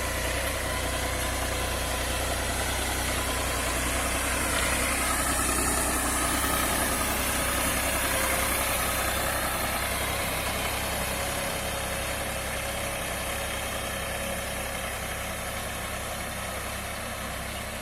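Tractor engine running steadily while powering a boom sprayer, with a high hiss over it; the sound slowly fades in the second half.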